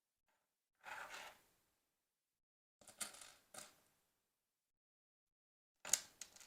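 Plastic LEGO pieces being handled: a short rustle of pieces about a second in, then sharp clicks and clacks of bricks around three seconds in and again near the end.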